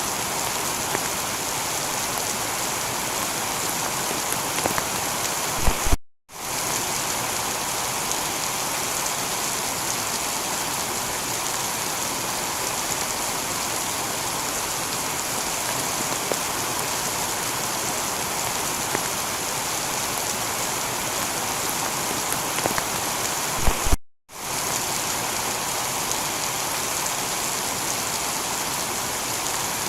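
Heavy rain falling steadily on a tiled roof, a constant even hiss with scattered drop patter. The sound cuts out for a split second twice, about six and about twenty-four seconds in, each time just after a short crackle.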